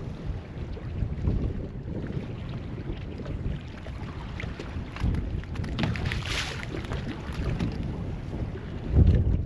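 Wind buffeting the microphone on an open boat at sea, with a brief hiss about six seconds in and a heavy gust near the end.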